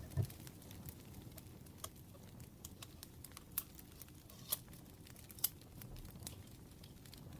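Burning firewood crackling, with scattered sharp pops, three of them standing out in the middle, over a low steady rumble. There is a soft low thump just after the start.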